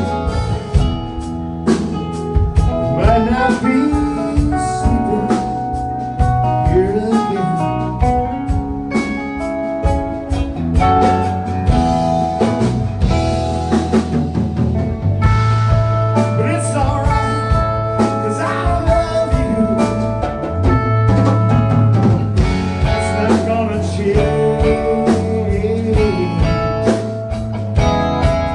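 A rock band playing an instrumental passage between verses. A lead guitar plays bending notes over bass and a drum kit.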